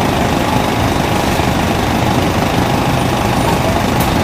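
Scania 410 coach's diesel engine running steadily at an even, unchanging speed.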